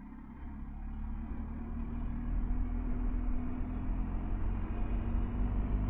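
BMW R1250GS Adventure's boxer-twin engine running while being ridden. It gets louder over the first two seconds or so as the bike picks up, then holds steady.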